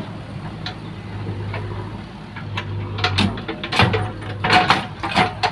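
A backhoe loader at work: a diesel engine running steadily, with a burst of sharp knocks and clanks from about three seconds in.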